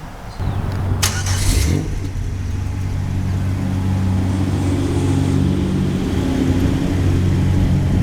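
2004 Buick Rendezvous CXL's V6 engine running. The sound rises suddenly about half a second in and there is a sharp click about a second in; from about two seconds in the engine settles into a steady idle.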